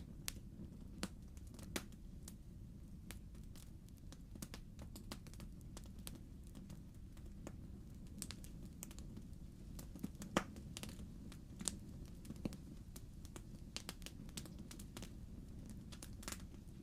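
Wood fire crackling in a fireplace: irregular sharp pops and snaps over a low steady rumble, with one louder pop about ten seconds in.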